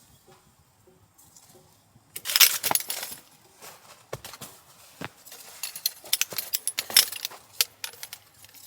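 Clinking and rattling of small hard objects being handled, with rustling, starting about two seconds in and loudest at its start.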